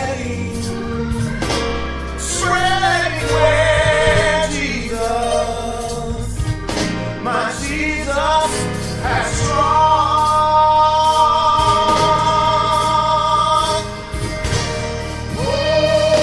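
Gospel music with choir singing over a steady bass; in the second half the voices hold long notes that waver.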